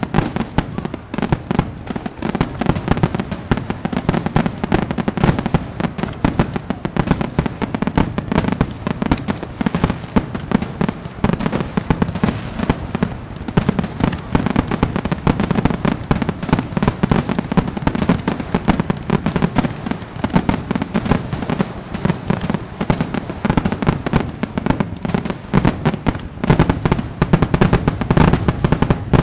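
Fireworks display: a dense, unbroken barrage of bangs and crackles, many each second, over a deep rumble.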